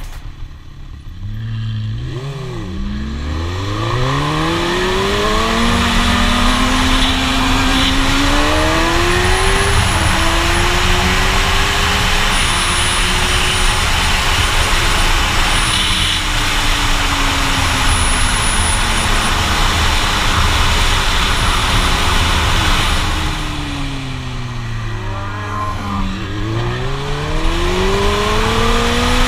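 Suzuki GSX-R1000's inline-four engine accelerating hard through the gears. Its pitch climbs in repeated rising sweeps between upshifts, over heavy wind rush. About three-quarters of the way through, the engine note falls as the throttle comes off, then climbs again near the end.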